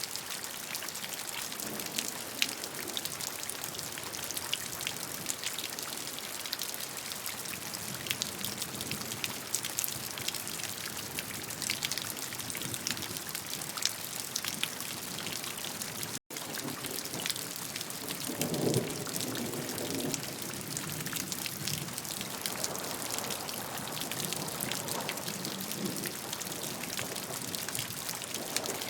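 Steady rainfall: an even hiss with a dense patter of individual drops striking a surface. The sound cuts out for an instant about halfway through.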